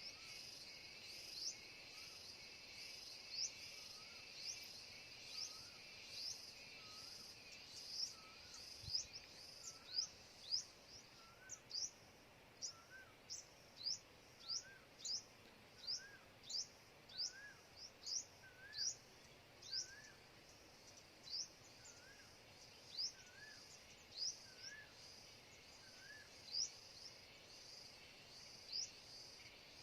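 A bird calling over and over, about once a second, each call a quick high note sliding downward together with a lower wavering note, over a faint steady hum of insects that fades out partway through.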